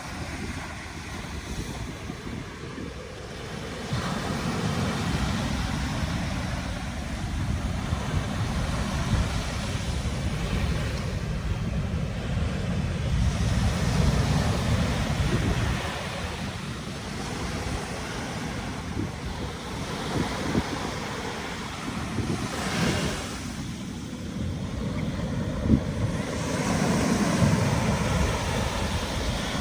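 Sea surf breaking and washing onto a beach, swelling and ebbing in surges, with wind rumbling on the microphone.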